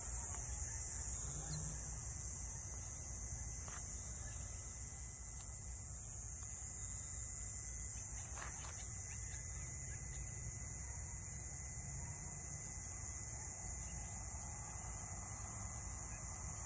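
Outdoor ambience: a steady high-pitched hiss over a low rumble, with a few faint clicks and no bird calls standing out.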